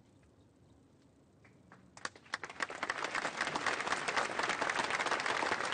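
Audience applause: a few scattered claps about two seconds in quickly swell into steady, loud clapping from a crowd.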